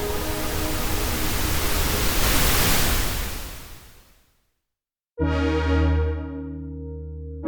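Cherry Audio P10 software polyphonic synthesizer playing pad presets. A held, noise-laden pad swells and then fades out over about four seconds. After about a second of silence, a new sustained chord starts and its brightness dies away.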